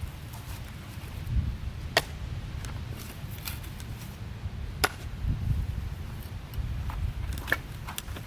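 A few sharp knocks, the loudest about two, five and seven and a half seconds in, with lighter clicks between, over a steady low rumble.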